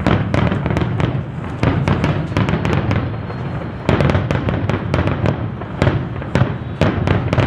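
Fireworks going off in rapid succession: a dense run of sharp bangs and crackles, growing louder and denser about four seconds in.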